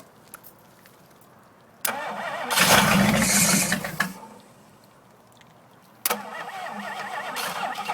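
Ford 427 FE V8 being cranked by its starter in two tries: the first, starting about two seconds in, swells loud for a second or so and dies away; the second starts about six seconds in and keeps cranking with an even rhythm. The engine is not catching and running on its own, and needs gas poured in to prime it.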